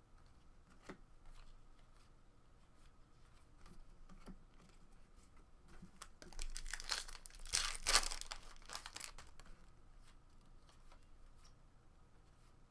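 A 2017 Topps Series 1 baseball card pack's wrapper torn open, a stretch of ripping and crinkling lasting about three seconds around the middle, after light clicks of cards being handled.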